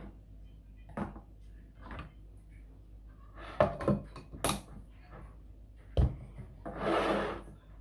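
A few separate knocks and clatters, with rubbing between them, then a short rushing hiss near the end.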